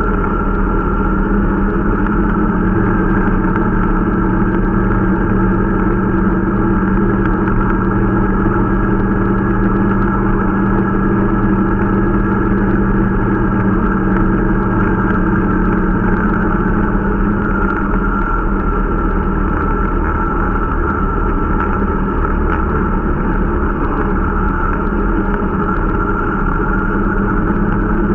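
Irbis Dingo T125 snowmobile's 125 cc engine running steadily on a break-in ride, its pitch holding nearly level with a slight dip about halfway through.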